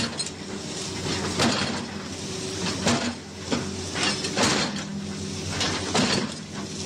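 A vehicle running with a steady engine hum, broken by irregular sharp clicks and knocks about once a second.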